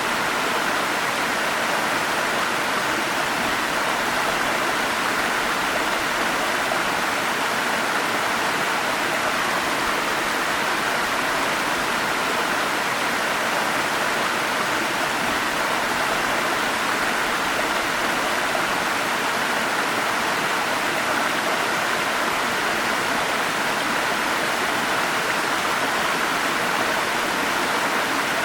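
Forest stream running, a steady, even rush of water with its strength in the middle pitches and no separate splashes standing out.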